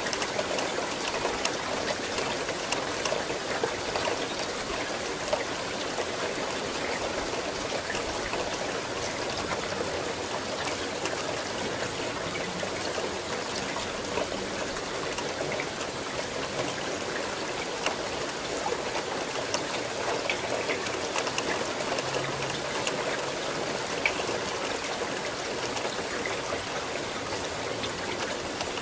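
Steady rain falling: an even hiss scattered with many small, sharp drop ticks.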